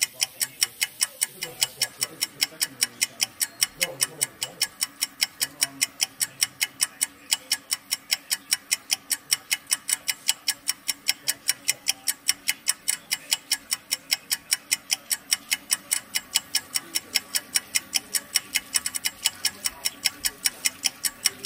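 Clock ticking steadily, about four ticks a second, timing a 20-second handwash. Water from a running tap sounds faintly beneath.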